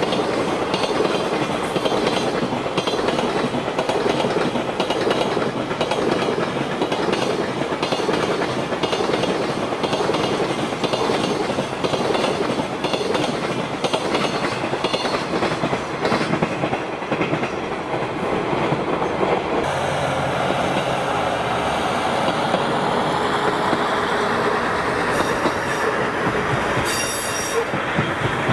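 Long container freight train rolling past, its wheels clicking rhythmically over the rail joints. The clicking stops about seventeen seconds in and a smoother, steady train sound follows, with two brief high-pitched squeals near the end.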